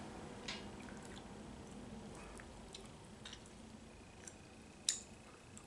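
Faint chewing of a mouthful of stew, crunchy enough to be called "crunch, crunch, crunch", with scattered soft mouth clicks and a sharper click near the end.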